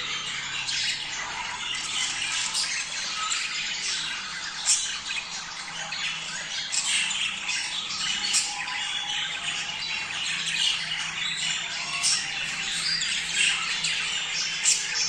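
A flock of budgerigars chattering and squawking continuously, many short calls overlapping, the kind of group warble sold as a breeding-stimulation sound for pet budgies.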